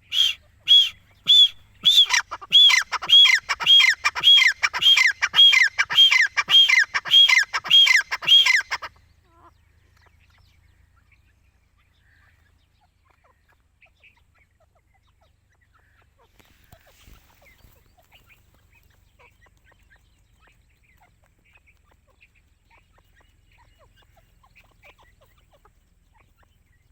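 Grey francolin calling: three short notes, then a fast run of about a dozen loud repeated calls, each note sliding down in pitch, stopping about nine seconds in. Only faint scattered chirps follow.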